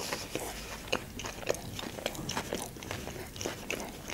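Close-miked chewing of a mouthful of sushi roll, with mouth closed: a string of small, irregular wet clicks and smacks, several a second.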